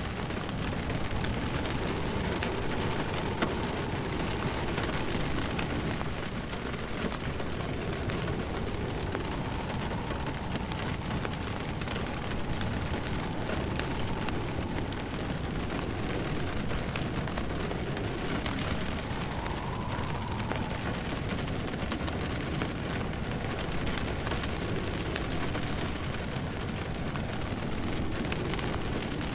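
Steady rain with a wood fire crackling, and a wind that slowly rises and falls in pitch underneath.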